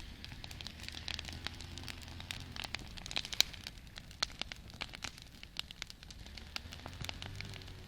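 Campfire crackling: burning wood gives off irregular sharp snaps and pops over a low steady rumble, with one louder snap about three and a half seconds in.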